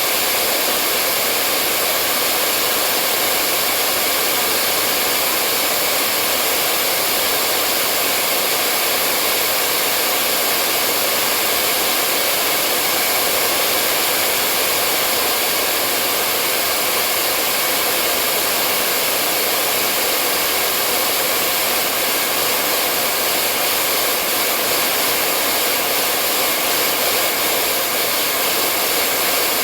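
Hair dryer blowing steadily: a constant, unchanging whooshing hiss of fan and airflow.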